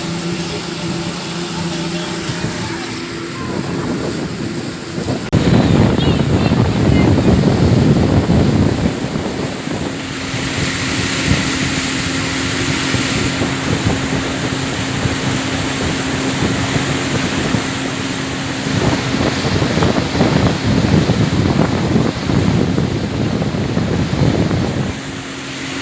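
Motorboat under way: its engine drones steadily beneath heavy wind buffeting on the microphone and the rush of water. The wind gets louder about five seconds in.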